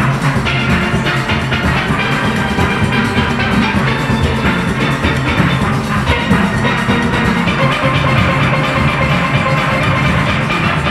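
Steel orchestra playing a calypso arrangement at full strength: many steelpans sounding the melody and chords over drums and percussion.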